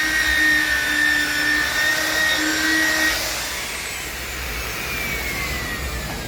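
A small electric power tool's motor runs with a steady high whine, switches off about three seconds in, and spins down with a falling whine.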